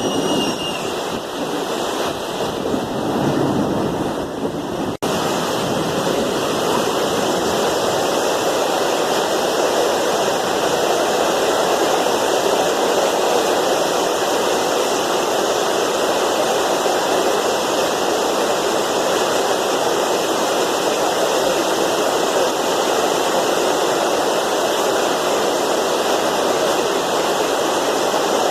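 Heavy downpour of rain mixed with hail, a loud, steady rush of noise, with a brief break about five seconds in.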